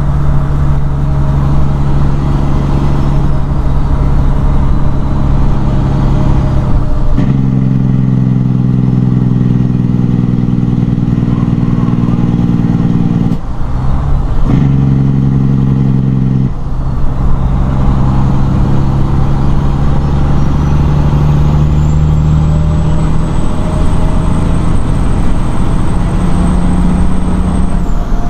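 Detroit Diesel Series 60 12.7-litre six-cylinder engine of a 1997 Peterbilt 378 running under way. Its note steps to a different pitch about seven seconds in, dips briefly about halfway, steps back a little later and then climbs steadily toward the end, typical of engine speed changing with gear shifts on the 18-speed.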